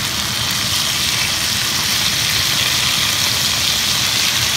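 Chicken pieces sizzling in olive oil in a frying pan on medium heat: a steady hiss with a low rumble underneath.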